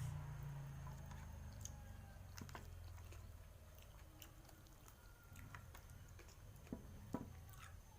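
A person chewing food close to the microphone, with faint, scattered small clicks of the mouth. A low hum fades away over the first few seconds.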